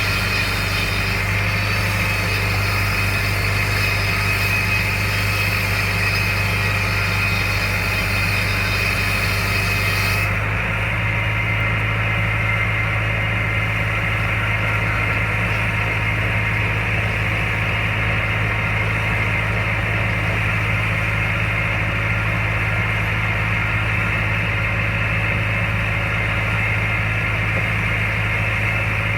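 An engine idling steadily with a strong low hum. About ten seconds in, the higher hiss cuts away abruptly while the low running carries on unchanged.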